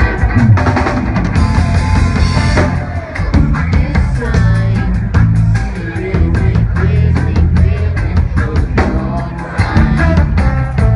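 Rock band music with a steady drum-kit beat, bass and guitar, and some singing.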